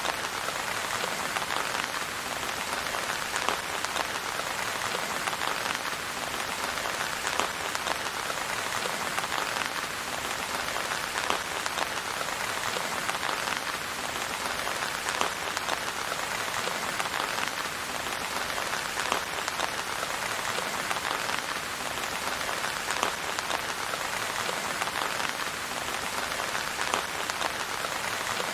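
Steady rain falling, an even patter with many small, sharper drop taps scattered through it.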